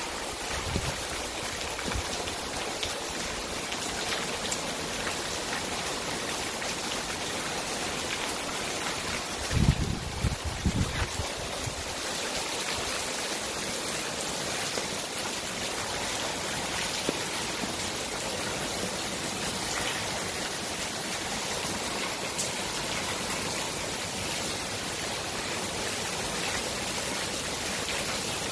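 Torrential rain pouring steadily onto the ground, a dense even hiss of a heavy downpour. A few brief low thuds come about ten seconds in.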